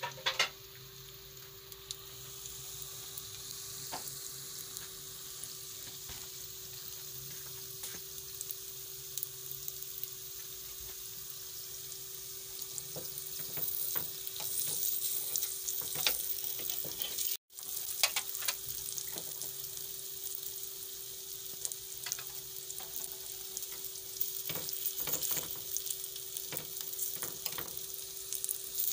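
Vegetable fritter batter sizzling as it fries in a four-cup nonstick pan. Scattered light clicks come from a spoon and spatula against the pan.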